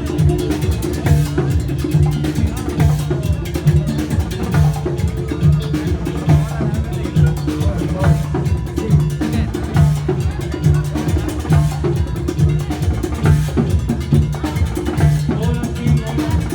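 A band playing an instrumental passage, with a steady beat of drums and repeating bass notes.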